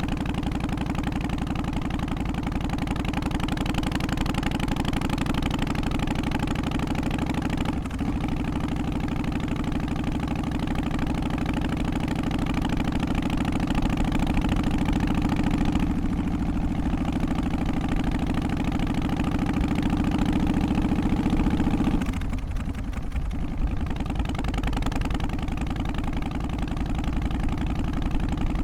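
Harley-Davidson Twin Cam 88 V-twin of an FXST Softail running steadily at idle, with the uneven beat the title calls 三拍子 ('three-beat'). It dips briefly about eight seconds in and goes duller near the end.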